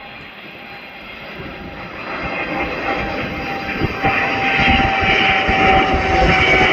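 Jet airliner's engines at takeoff thrust, a roar with a steady whine that grows steadily louder.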